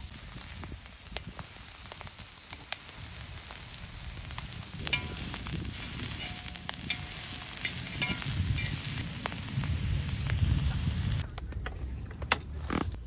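Food sizzling and crackling on a hot camp grill or pan, with scattered small clicks and taps. The sizzle cuts off suddenly about 11 seconds in, leaving a few clicks.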